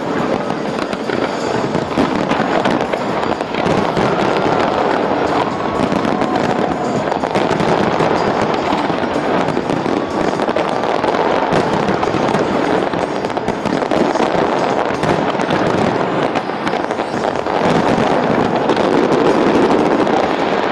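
A large fireworks display going off without a break: dense, overlapping bangs and crackling, with music underneath.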